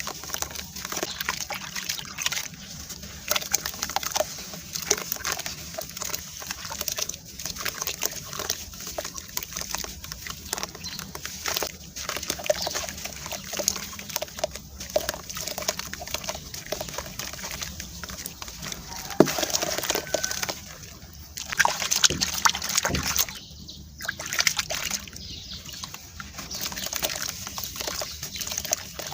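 Clumps of sand-cement being crushed and crumbled: a continuous gritty crackle with wet sloshing and squelching, and a few louder crunches in the second half.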